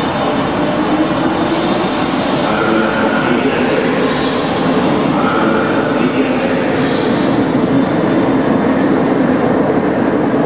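Electric suburban commuter trains running through a covered station: a steady rumble of wheels on rail with a thin high whine, and two pairs of brief high wheel squeaks around four and six and a half seconds in.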